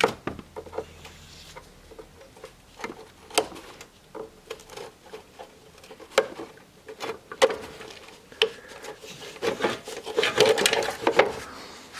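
Plastic clip and battery tray being worked loose by hand: scattered clicks, knocks and rubbing, coming thicker near the end.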